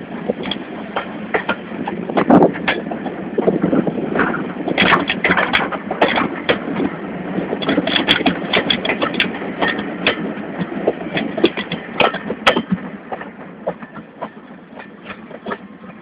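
GWR King-class steam locomotive 6023 King Edward II working, a steady rushing noise with many irregular sharp clanks and knocks, dying away over the last few seconds.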